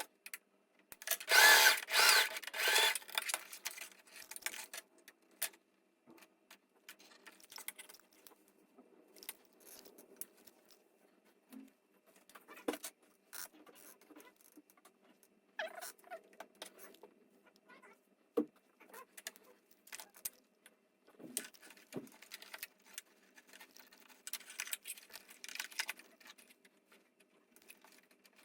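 Heavy-duty sewing machine stitching in a short run of quick strokes for the first few seconds. Then light scattered clicks and rustling from handling, with another brief, softer run of stitching near the end.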